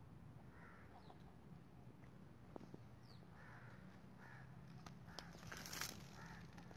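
Near silence outdoors with faint bird calls repeating several times, and a brief hiss about six seconds in.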